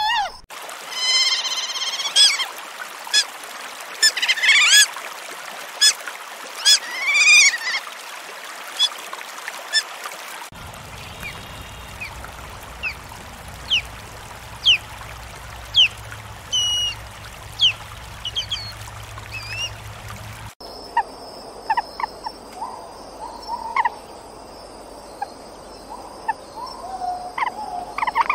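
Wild animal calls, repeated short pitched calls and chirps, in three separate recordings joined by abrupt cuts, about ten seconds each.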